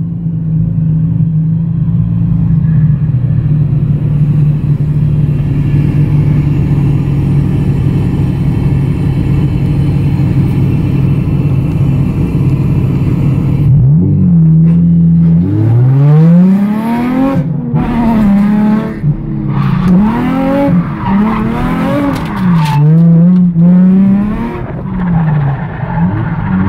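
Nissan 350Z's 3.5-litre V6 heard from inside the cabin, holding a steady drone for the first half, then revving up and down again and again as the car drifts, with tyres squealing.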